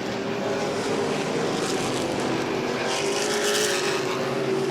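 Engines of a field of modified race cars running at racing speed around a short oval track, a steady drone that swells briefly as cars pass closer about three seconds in.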